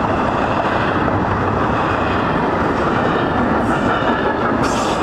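Double-stack intermodal freight cars rolling past at close range: the steady, loud noise of steel wheels running on the rails, with a faint high steady whine over it and a short hiss about four and a half seconds in.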